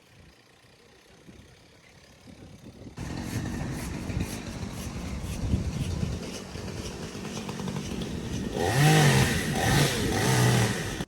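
Two-stroke chainsaw cutting through fallen storm timber. It starts suddenly about three seconds in and is revved harder, louder and rising and falling in pitch, in the last couple of seconds before it cuts off abruptly.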